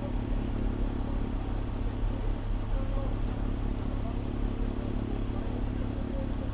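Fire engine's diesel engine running steadily, a constant low drone heard from the dashcam inside the apparatus.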